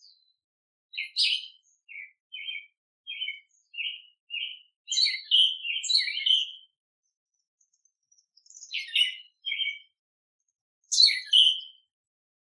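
Small songbirds chirping in short, separate calls: a string of brief high notes, then several quick bursts of chirps with pauses between.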